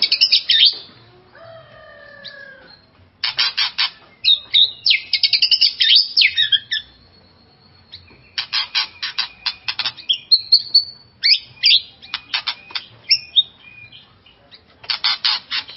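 White-rumped shama (murai batu) singing a vigorous, varied song, the kind used to provoke other shamas. Phrases of fast rattling notes mixed with high whistles come in bursts of a few seconds, with short pauses between them.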